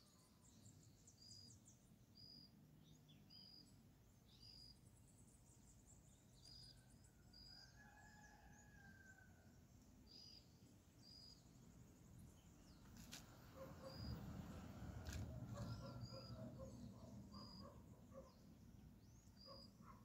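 Faint outdoor ambience: a small bird gives short, high chirps every second or two, often in pairs. A low rumble swells about two-thirds of the way through.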